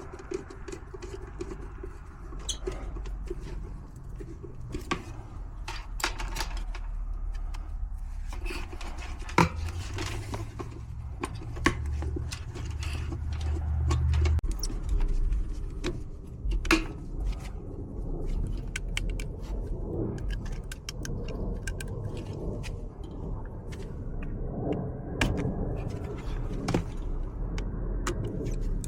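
Hand work on low-voltage HVAC wiring: scattered clicks, rattles and scrapes of tools, wires and parts being handled while a separate transformer is fitted to the zone board. A low hum runs from about ten to fourteen seconds in.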